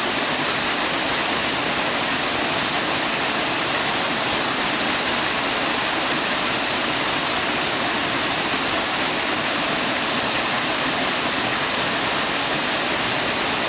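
Waterfall spilling over layered rock and splashing into the pool below: a steady, even rush of falling water.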